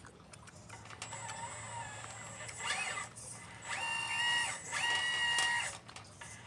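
A radio-controlled Liebherr 954 model excavator's motors whining in short runs. The pitch rises, holds steady and drops off each time, and the two longest and loudest runs come in the second half.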